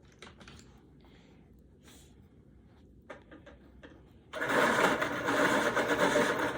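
A few faint ticks, then about four seconds in an electric pencil sharpener starts grinding a coloured pencil, loud and steady.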